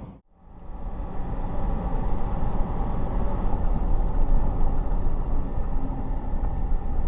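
Steady vehicle driving noise, a low rumble of engine and road, building up over the first second after a brief dropout.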